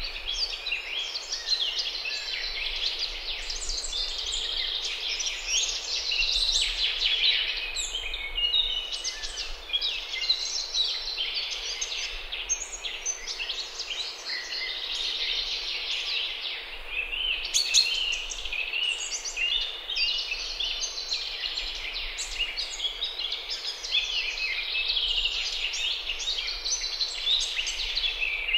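Songbirds singing, several at once, a dense unbroken run of high chirps and trills.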